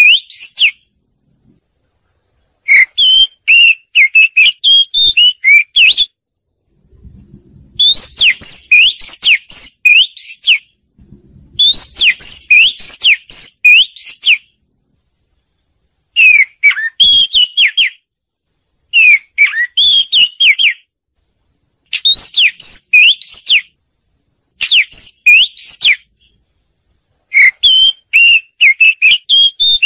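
Oriental magpie-robin song: rich, varied whistled phrases, in about eight bouts of one and a half to three seconds each, separated by short silences. This is the kind of call track used to lure magpie-robins and to set caged birds singing.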